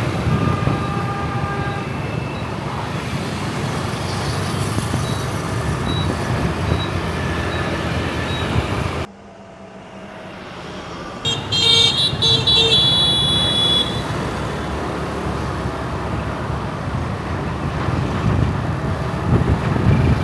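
City street traffic heard while riding through it: a steady rush of engines and road noise. About nine seconds in it drops away sharply for about two seconds, then a vehicle horn honks several times in quick succession.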